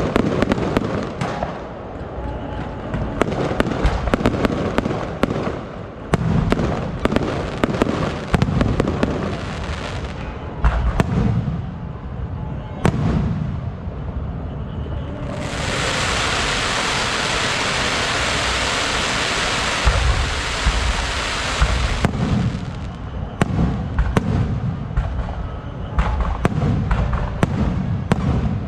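Fireworks going off: a rapid run of sharp bangs and crackles. About halfway through, a loud, even hiss takes over for about six seconds, then the bangs and crackles resume.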